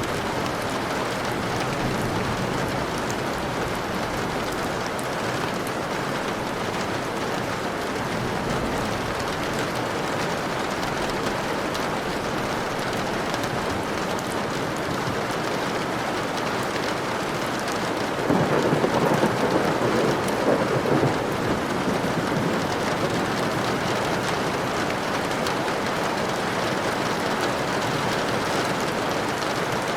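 Steady rain, with a roll of thunder for a few seconds about two-thirds of the way through.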